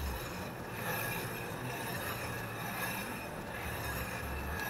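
Steady metallic grinding and scraping from a Chery QQ's front wheel brake, with a faint high-pitched squeal running through it. The owner suspects the inner brake pad has broken apart.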